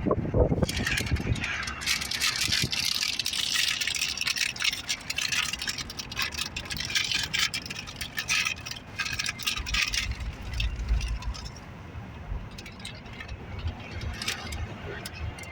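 Slow-moving Norfolk Southern train's cars rattling and clicking as they roll past, with a low rumble underneath; the rattling eases about eleven seconds in, leaving scattered clicks.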